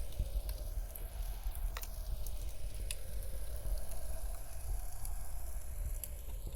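Wood fire crackling, with sharp pops scattered through, over a low steady rumble of blizzard wind.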